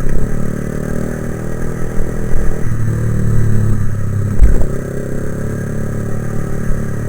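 Motorcycle engine running steadily while riding, with a gusty low rumble of wind on the microphone.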